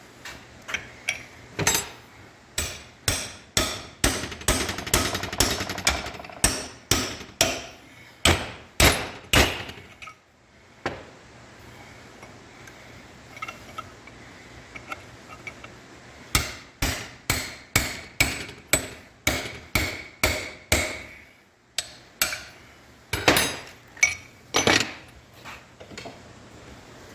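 Hammer striking metal in runs of steady blows, about two a second, with a faint metallic ring after the strikes; the blows stop for a moment about ten seconds in and again about twenty-one seconds in.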